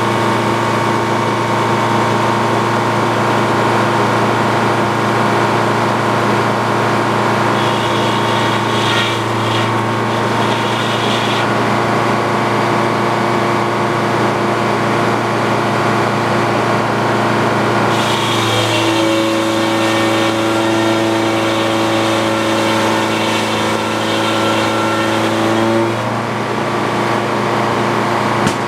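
Antique Frick circular sawmill running with its power unit droning steadily. For several seconds past the middle a new higher hum and hiss join in, then stop, as the blade is loaded in a cut.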